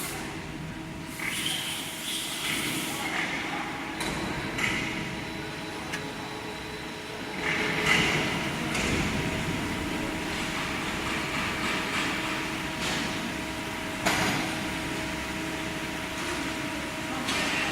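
Metal-cutting band saw machine running with a steady hum, with a few sharp knocks and clunks now and then.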